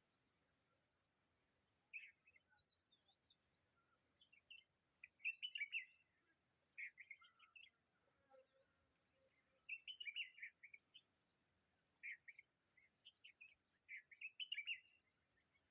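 Birds chirping in short, quiet bursts of rapid high chirps, a cluster every second or two, the loudest about five to six seconds in and again near the end.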